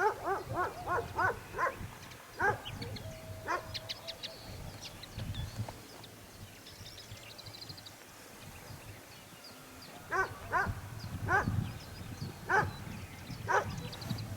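A dog barking in a quick series of about six barks at the start, then a few single barks, and spaced barks again from about ten seconds in. Small birds chirp and trill high in the background.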